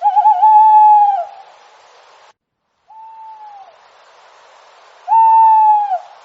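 An owl calling: two loud, drawn-out whistled calls about a second long, wavering at the start, then held steady and dropping in pitch at the end, one at the start and one about five seconds in, with a fainter matching call between them. A steady hiss lies underneath and cuts out briefly after the first call.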